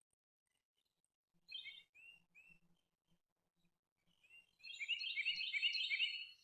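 Songbird singing: a short burst of high chirps about a second and a half in, then a louder song of rapid repeated notes over the last two seconds.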